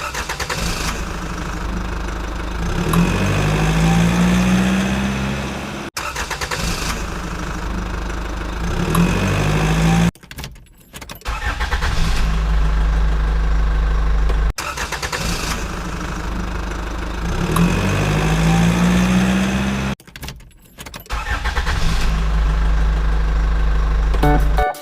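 Engine running with short rises in pitch as it revs. A stretch of a few seconds repeats several times, each time broken off by an abrupt cut.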